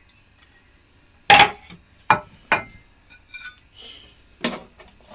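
A wooden board and a plate knocking together as they are set down on the worktop: four sharp clacks, the first the loudest.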